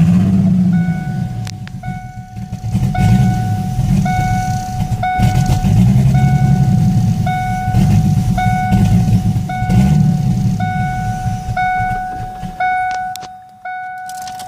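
1998 Ford Mustang 3.8 L V6 idling roughly, its low rumble wavering up and down instead of holding steady, after a swap to a split-port intake. A warning chime dings about once a second over it, and near the end the engine shuts off while the chime keeps going.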